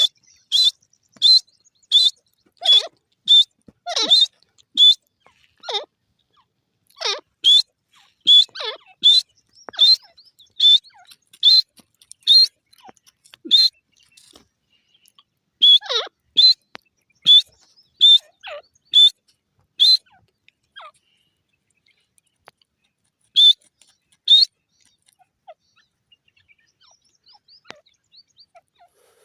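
Grey francolin (desi teetar) calling: runs of short, shrill, high whistled notes, about two a second. The runs come in bouts of several seconds with short pauses between them and die away over the last few seconds.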